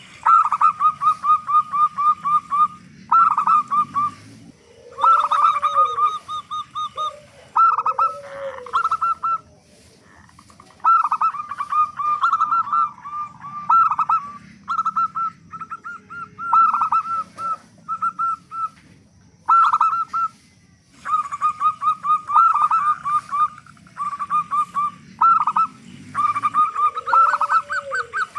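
Zebra doves (perkutut) calling: fast runs of short repeated notes in trains of a few seconds, with a few lower, rounded coos mixed in.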